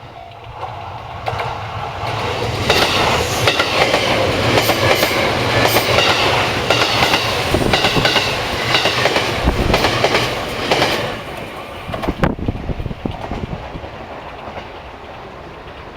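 A train passing on the line, its wheels clattering rhythmically over the rail joints. It builds up over the first couple of seconds, is loudest for most of the middle, and fades away after about twelve seconds, with a single sharp click as it goes.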